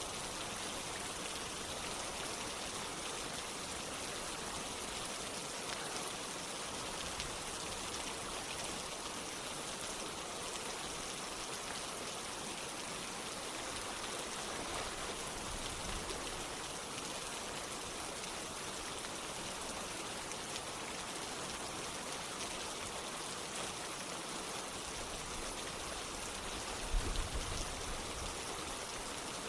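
Steady rain and running water, an even hiss with no pauses. A brief low thump comes near the end.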